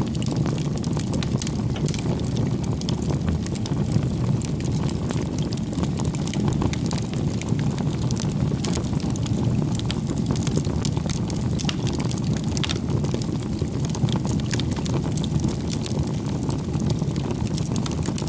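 Wood bonfire burning: a steady low rumble with frequent small crackles and pops of the burning wood.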